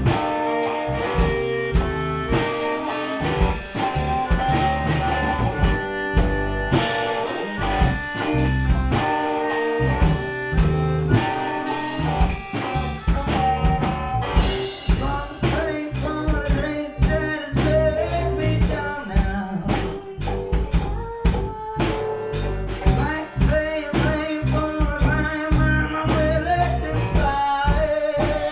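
A gypsy rock band playing live: guitar, accordion, bass and a drum kit keeping a steady beat.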